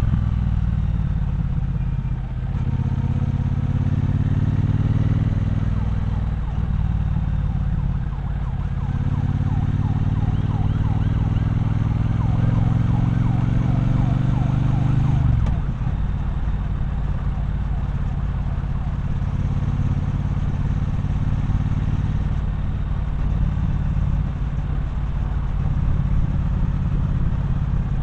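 Triumph Bonneville Bobber's 1200 cc parallel-twin engine pulling through the gears, its pitch rising in several steps with shifts in between. About fifteen seconds in the throttle closes and the engine drops to a low, steady run.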